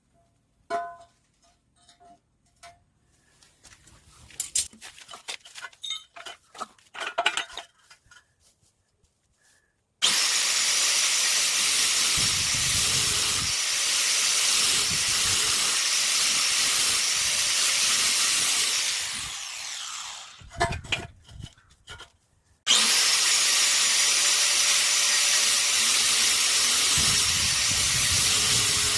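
A handheld power tool cutting, with a steady high whine, in two long runs: one starts about ten seconds in and the other near the end. Between them it winds down with a falling whine and a few knocks follow. Before the first run there are scattered light taps and knocks as workpieces are handled.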